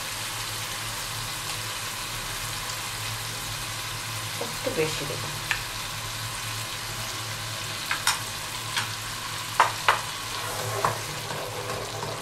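Spice masala sizzling steadily in oil in a pot as tomato purée is spooned in and stirred, with a few sharp clicks of a spoon and spatula against the pot and bowl, most of them in the second half.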